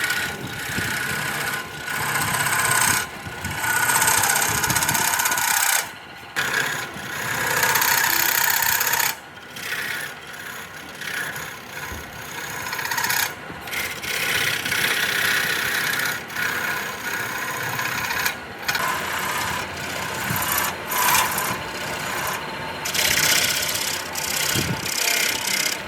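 Abrasive rubbing and rasping on wood, as in sanding or filing a workpiece, in stretches of a few seconds that cut off abruptly several times.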